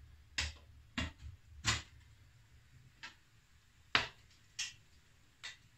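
Wood fire crackling in a firebrick stove: about seven sharp, irregularly spaced pops over a few seconds.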